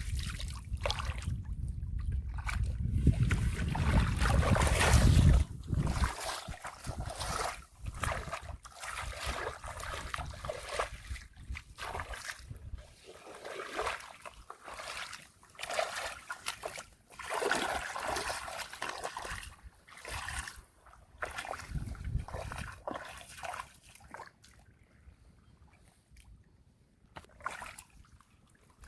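Irregular splashing and sloshing in shallow muddy water in a drained rice field, where catfish are being caught by hand. A heavy low rumble runs under the first five or six seconds and is the loudest part. The splashes come in short bursts and thin out near the end.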